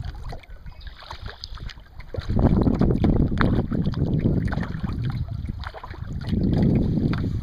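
Water splashing and dripping around a kayak under way, with wind rumbling on the microphone that grows much louder about two seconds in.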